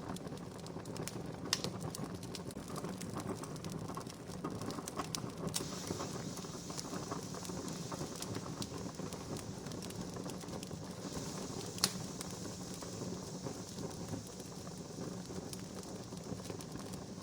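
Wood campfire crackling steadily with many small snaps and two louder pops, one about a second and a half in and one about twelve seconds in. A soft higher hiss comes and goes in the middle.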